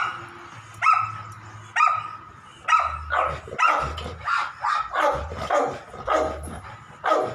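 A dog barking repeatedly, about a dozen barks: roughly one a second at first, then faster, about two a second, from around three seconds in.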